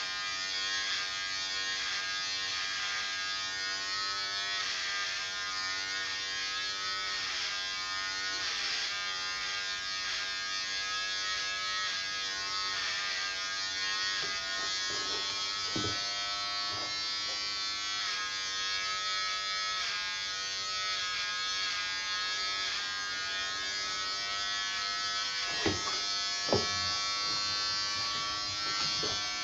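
Electric hair clippers running with a steady buzz whose pitch wavers slightly as they cut, with a few sharp clicks in the second half.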